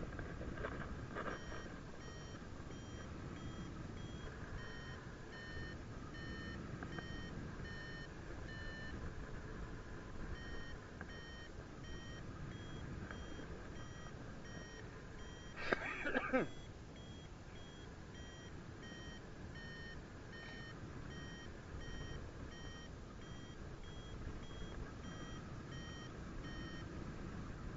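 Paragliding variometer beeping in short pulses about twice a second, its pitch shifting slightly, the signal that the glider is climbing in rising air. Steady wind noise runs underneath. The beeps stop for a second or two about nine seconds in, and a short loud burst of noise comes around sixteen seconds.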